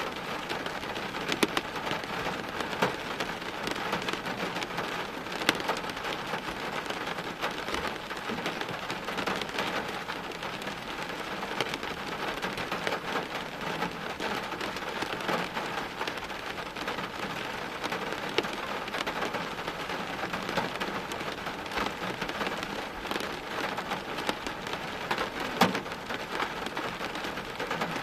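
Steady rain falling, with scattered louder drops splashing close by; one sharper splash comes near the end.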